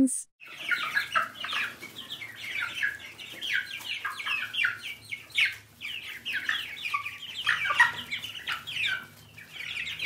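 A brood of ducklings peeping: many short, high calls, each falling in pitch, overlapping several to the second.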